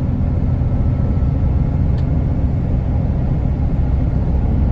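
Concrete agitator truck heard from inside the cab at highway speed: a steady low drone of diesel engine and road noise, with one faint click about two seconds in.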